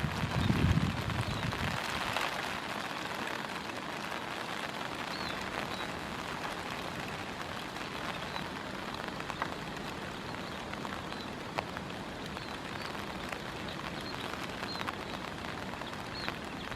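Munias bathing in shallow water on the ground, a steady splashing hiss, with short, high chirps every few seconds.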